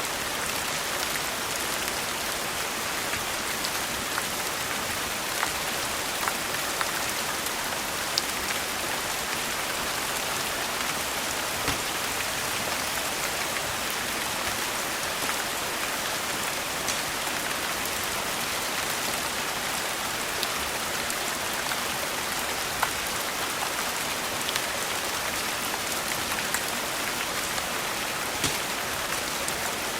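Steady rain falling, a continuous even hiss, with scattered sharp clicks every few seconds.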